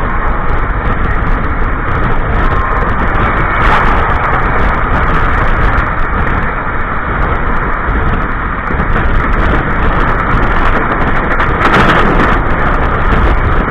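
Passenger train running, heard from inside its toilet compartment: a loud, steady rumble and rush of wheels on the rails, with a few sharper clacks about four seconds in and near the end.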